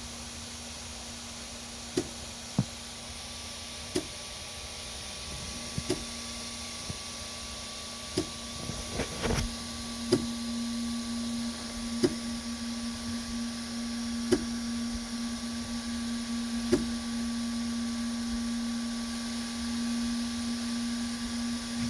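3D printer running with a steady low hum that grows louder about ten seconds in, and a fainter higher steady tone. Sharp clicks come about every two seconds, with a short flurry of knocks around nine seconds in.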